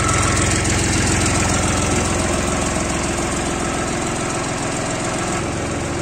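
Jinma 244 tractor's diesel engine idling steadily, its note shifting slightly about five seconds in.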